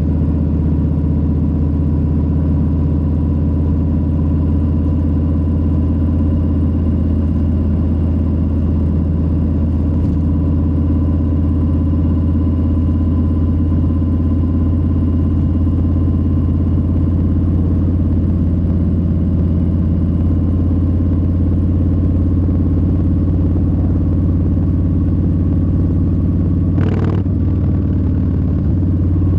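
Harley-Davidson Low Rider S's Milwaukee-Eight 117 V-twin running steadily while cruising, with a faint steady whine over the low engine drone. One short sharp sound comes near the end.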